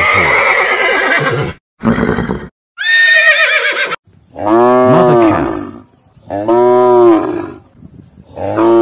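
A horse neighing over and over: a few high, wavering whinnies in the first four seconds, then three longer, lower calls that rise and fall in pitch, each about a second and a half long.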